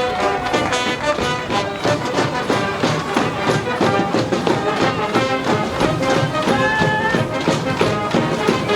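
School brass band playing a baseball cheering tune, brass melody over a steady drum beat.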